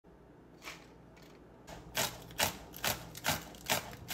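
Kitchen knife chopping on a cutting board: a couple of faint taps, then from about two seconds in a steady run of sharp chops, about two or three a second.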